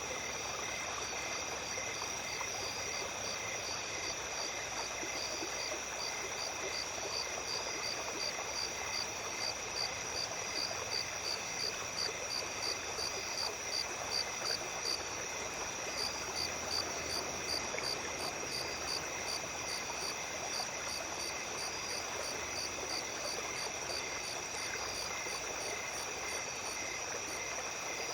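A small stream running with a steady wash of water, under a night chorus of insects: steady high trills and a rhythmic pulsing chirp that grows louder toward the middle and later part.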